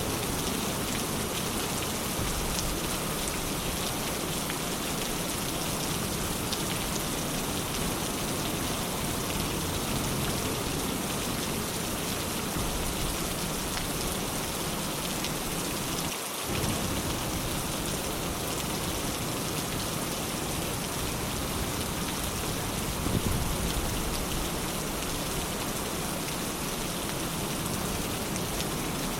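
Steady, heavy rain falling in an even hiss, with a momentary dip in the low end a little past halfway.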